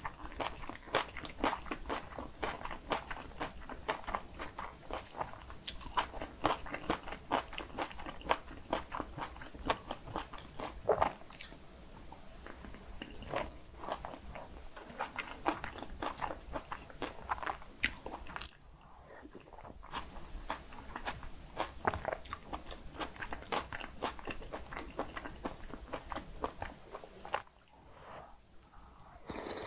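Close-miked eating sounds: a person chewing mouthfuls of cockle bibimbap with crunchy seasoned raw radish, a quick run of wet crunches and mouth clicks, easing off briefly about two-thirds through and again near the end.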